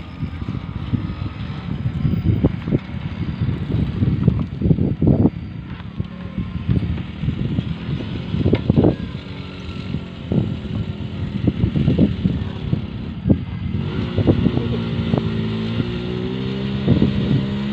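Small Honda motorcycle engine in a homemade car working up a steep dirt slope: faint at first, then in the last few seconds its note comes through clearly, wavering up and down as it climbs. Wind gusts buffet the microphone with repeated low thumps.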